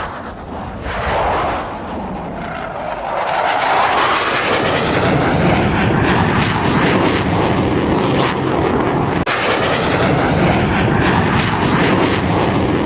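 Aircraft engines running loud, with a sweeping change in pitch over the first few seconds, then a steady loud rush with a brief break about nine seconds in.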